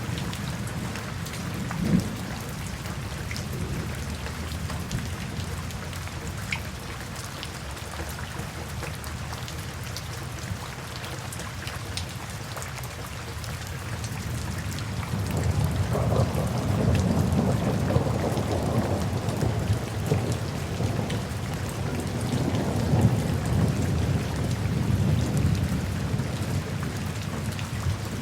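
Steady rain falling, with scattered drops ticking close by. About halfway through, a low rolling rumble of thunder swells up and keeps rolling, getting louder.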